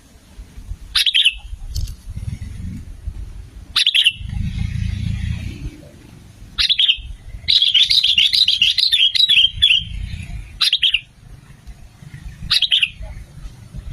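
Sooty-headed bulbuls calling, as used in a lure recording to draw wild birds. Short, sharp notes come every few seconds, with a rapid chattering run from about seven and a half to ten seconds in. Under the calls is a low rumble.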